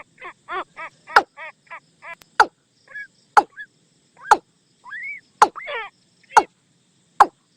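Watercock calling: a run of hollow, evenly repeated notes about three a second that dies away in the first couple of seconds, then loud sharp single knocks about once a second, with a short upward-sliding note near the middle.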